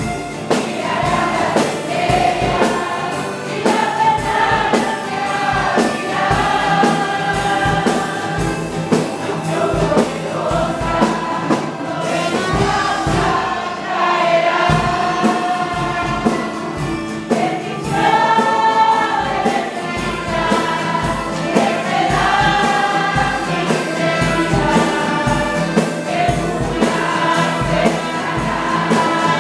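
A choir singing a gospel hymn with a band accompaniment and a steady drum beat.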